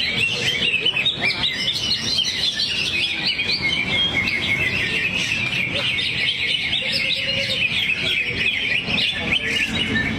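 Greater green leafbird (cucak hijau) singing a fast, unbroken stream of high chirps and trills, running through its learned song material in the absorbed, trance-like state fanciers call teler.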